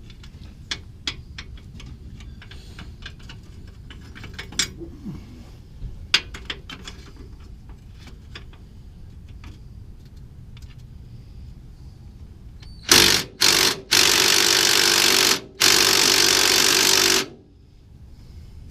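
Metal tools clicking and clinking against the suspension parts. About 13 seconds in, a power impact wrench runs in two short trigger bursts and then two longer runs, driving A-arm fasteners, and stops suddenly near the end.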